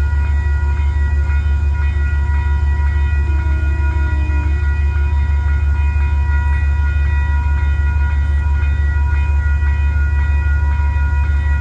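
Diesel locomotive idling at a standstill: a loud, steady low rumble with a fast, even pulse and faint steady whining tones above it.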